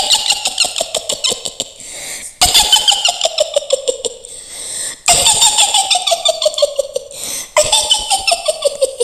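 A woman's shrill witch cackle in the voice of Mak Lampir, the Indonesian horror character: four long runs of rapid 'hihihi' laughter, each sliding down in pitch, with short breaks between them.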